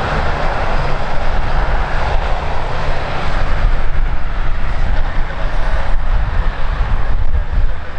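Airliner engines running as an aircraft moves near the microphone: a loud, even noise over a deep rumble, its higher part easing after the first few seconds.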